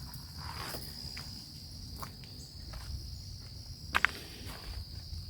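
A steady high insect drone, crickets by the sound tags, with footsteps and faint scuffs of someone walking, and a sharper click about four seconds in.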